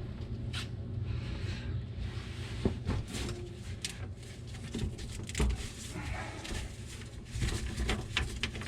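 Scattered knocks and clicks of hands working on plumbing parts, over a steady low hum.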